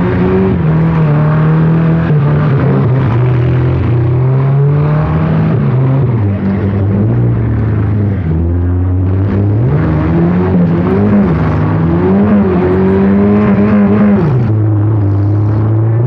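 Four-cylinder demolition derby car engines being revved hard, their pitch rising and falling again and again as the cars push and ram each other.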